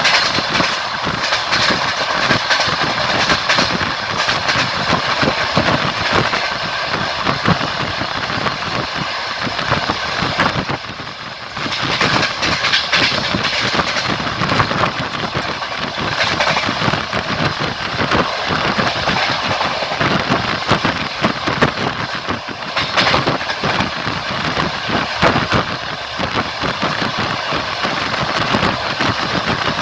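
Moving train: a steady running noise and rattle with frequent wheel clicks and knocks. The noise dips briefly about eleven seconds in.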